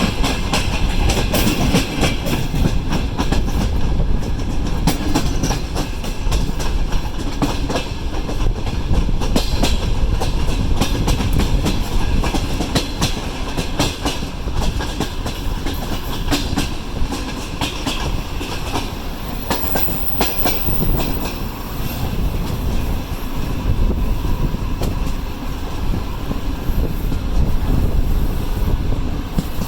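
Passenger train rolling along the track: a steady rumble with the wheels clicking over rail joints.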